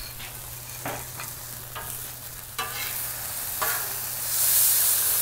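Alligator meat chunks sizzling on a Blackstone flat-top griddle, with a metal spatula scraping and clacking on the steel surface several times as it stirs them. The sizzle grows louder about four seconds in, over a faint steady low hum.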